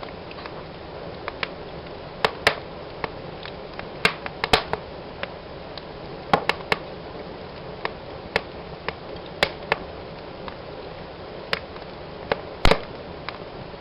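Fireplace fire crackling: irregular sharp pops and snaps over a steady hiss of burning, with the loudest pop near the end.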